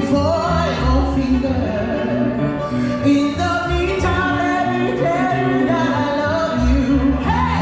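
Live band music: an upbeat swing tune with a stepping bass line, and a voice carrying the melody.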